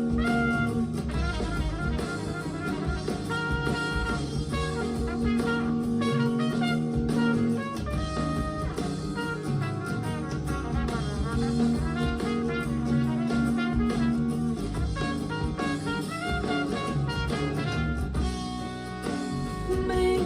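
Instrumental passage of a pop song, without vocals, played back through Elac Debut 2.0 DB62 bookshelf speakers.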